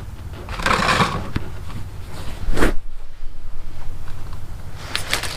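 Hand tools working on a car's rear brake parts: a scrape about half a second in, one sharp metallic knock near three seconds, and a few light clicks near the end, over a steady low hum.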